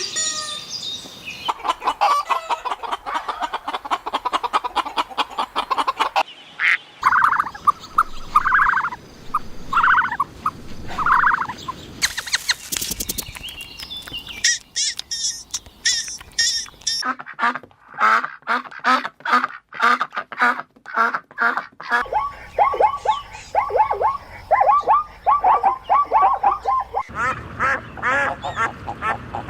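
Ducks quacking in rapid runs of short calls, in several separate clips joined by abrupt cuts.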